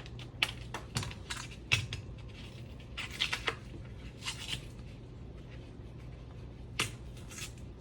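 Kitchen handling sounds while seasoning food: a string of sharp clicks and taps from spice containers, with a couple of short rattles of seasoning being shaken out, over a low steady hum.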